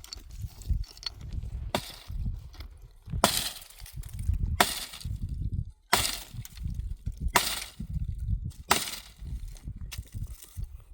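Dry firewood cracking under repeated strikes or breaks, about six sharp cracks evenly spaced roughly a second and a half apart, with low rustling and handling noise between them.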